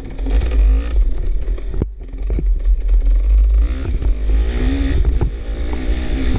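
Dirt bike engine revving up and down through the gears on a trail ride, with heavy wind rumble on the microphone and a few sharp knocks.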